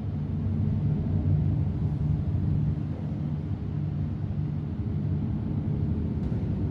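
A steady low droning rumble, with a deep hum that swells and fades.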